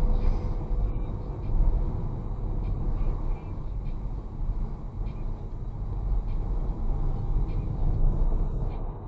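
Wind rushing over the microphone of a moving vehicle, a steady low rumble with the engine running underneath.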